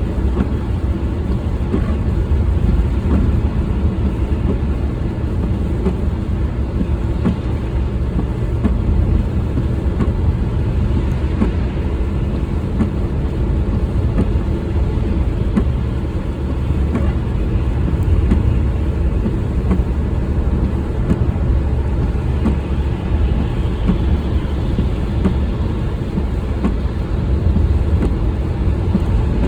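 Car driving: a steady low rumble of engine and road noise, heard from inside the vehicle.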